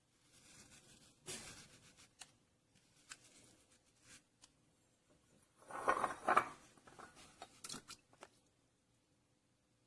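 Scattered handling sounds: light clicks and short rubbing noises, with a louder scraping rustle lasting about a second around six seconds in.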